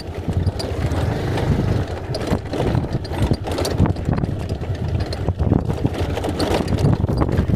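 Bajaj Pulsar 220F's single-cylinder engine running at low speed as the bike rolls over a rocky dirt track, with frequent knocks and rattles from stones under the tyres and the bike's fairing.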